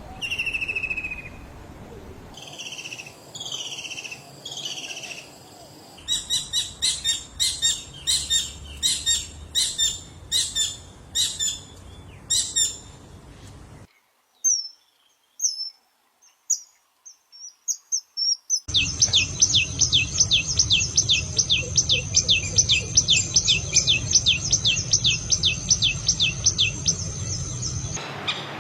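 A series of songbird recordings spliced one after another: short falling whistled notes, then repeated slurred notes, then a run of loud sharp calls. After a few seconds of near quiet with faint high chirps, a bird sings a fast, even, high-pitched trill over a low hum for about nine seconds.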